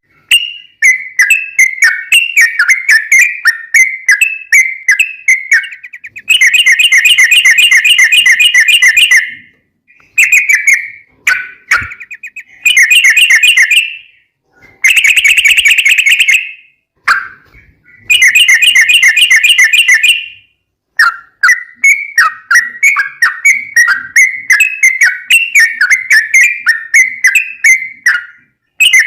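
Yellow-vented bulbul (trucukan) singing: quick chattering, whistled phrases alternating with long, rapid trills (the 'ropel' song), the longest trills running two to three seconds about a quarter and half way through and again past the middle.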